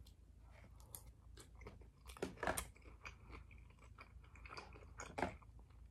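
Close-miked chewing of a sushi roll: faint wet mouth sounds with scattered soft clicks, loudest about two and a half seconds in.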